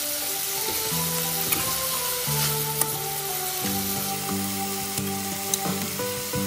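Chicken pieces sizzling as they stir-fry in a metal wok, with a metal spatula scraping and clicking against the pan. Soft background music of long held notes plays over it.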